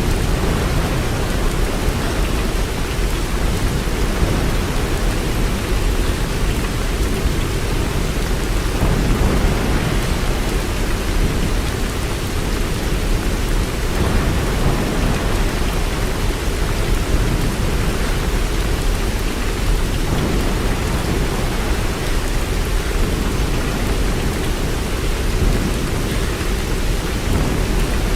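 Steady, heavy rainfall with a deep low rumble underneath, even and unbroken throughout.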